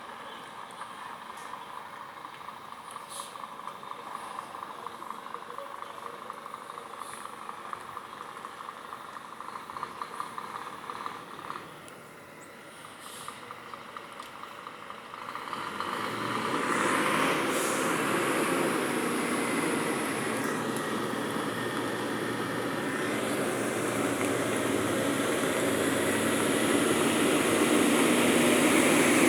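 Diesel engine of a Scania truck loaded with corn, running quietly at first. About halfway through it gets much louder and keeps building to the end.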